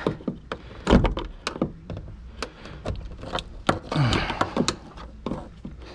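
Irregular knocks, taps and clicks as a fuel pump lock ring is worked by hand and with tools on top of the fuel tank. The loudest knock comes about a second in.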